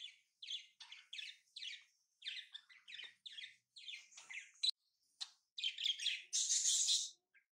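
Birds chirping in a quick run of short, high chirps, the loudest near the end.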